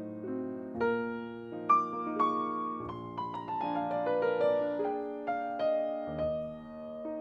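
Solo piano playing a slow, gentle melody with chords, with a run of notes stepping downward in the middle.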